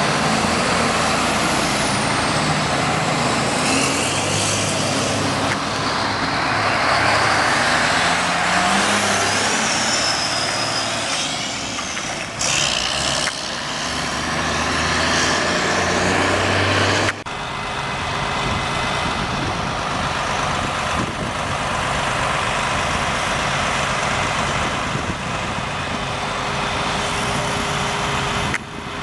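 Fire apparatus, a fire engine and a tanker truck, running on the road as they respond, with heavy engine and road noise. The sound changes abruptly about 17 seconds in.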